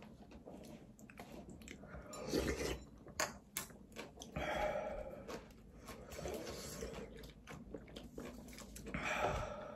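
People chewing and biting spicy tteokbokki up close: wet mouth clicks and smacks, with a few longer breathy stretches between.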